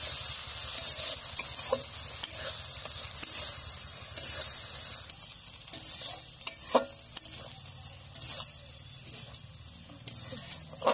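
Ground spice paste sizzling in hot oil in a steel kadai while a steel spatula stirs it, scraping and tapping against the pan. The sizzle gets quieter in the second half.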